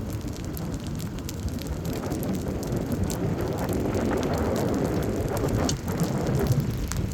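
Storm rain falling with a steady low wind rumble, with scattered sharp taps of drops hitting close by.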